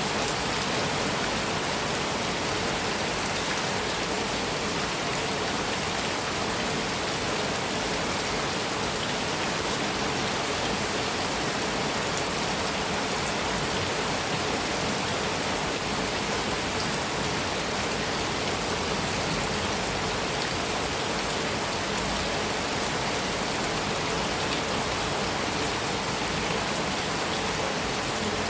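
Heavy rain falling steadily on a metal roof, a dense even hiss with scattered drops ticking through it.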